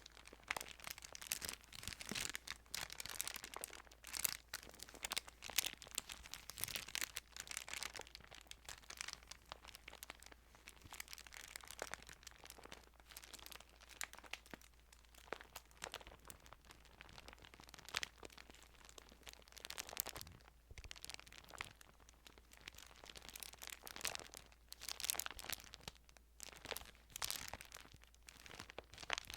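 Thin Bible pages crinkling and crackling as they are handled, a steady run of small crisp clicks and rustles.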